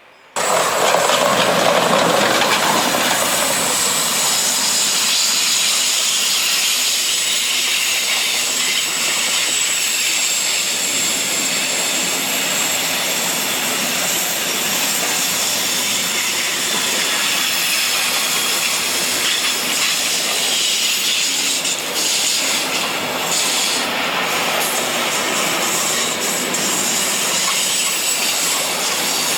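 Train passing close by on the line: a steady loud rush of wheels on rail with a high hiss and faint high-pitched squeal tones, starting abruptly about half a second in.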